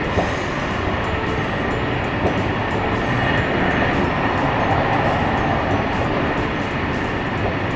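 JR Hokkaido 737 series electric train running on the line, heard from inside the carriage as a steady rumble of wheels and motors with a few light clicks.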